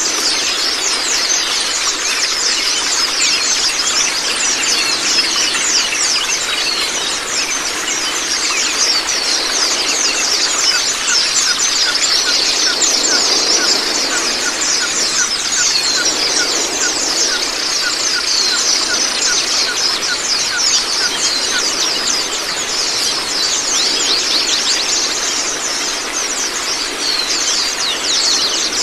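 A group of white-eyes (Zosterops) singing nonstop in dense, rapid, high twittering chirps, over a steady rush of running water.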